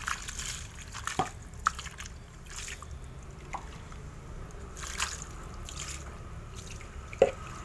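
Water dripping and splashing in irregular drops as a motorcycle exhaust pipe is rinsed with plain water, with one louder drop near the end.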